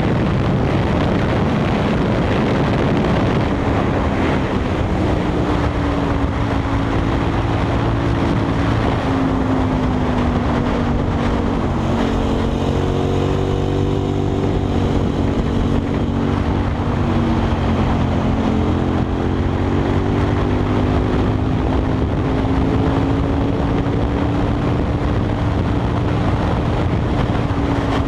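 KTM 990 SMR's V-twin engine with a Leo Vince exhaust, running under way with its pitch falling and rising slowly as the throttle and speed change, a dip about ten seconds in and another near eighteen seconds. Wind rushes over the microphone throughout.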